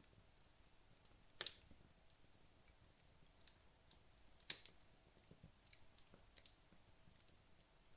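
Wood logs burning down in a fireplace, crackling sparsely and quietly, with two sharper pops about one and a half seconds in and near the middle, the second the loudest.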